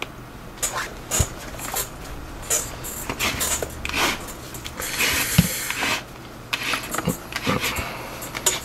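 Leather lace and a leather catcher's mitt being worked by hand during relacing: scattered small knocks and clicks, with a longer rustling scrape about five seconds in as lace is drawn through the leather.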